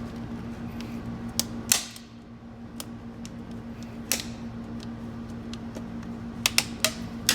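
A small screwdriver prying at a snap ring inside an automatic transmission's clutch housing: scattered sharp metallic clicks and scrapes, a few single ones, then a quick cluster near the end, over a steady low hum.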